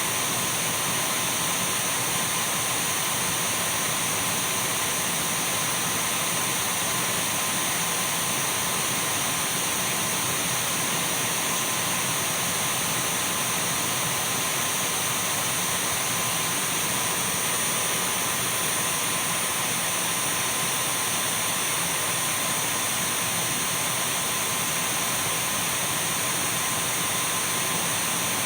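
Dyson V12 cordless stick vacuum cleaner running at a steady speed: an even rush of air with a steady high motor whine over it.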